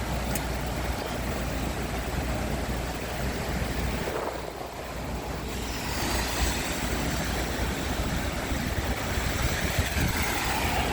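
Steady rush of a rain-swollen stream mixed with road traffic on wet pavement, a vehicle gliding past in the second half.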